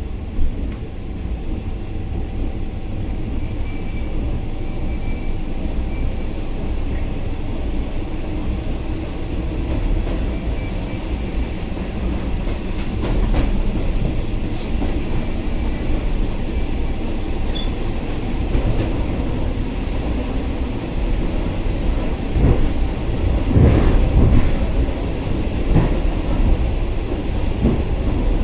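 Commuter electric train running, heard from inside the passenger car: a steady rumble with the wheels knocking over rail joints. The clatter grows louder and denser about two-thirds of the way through.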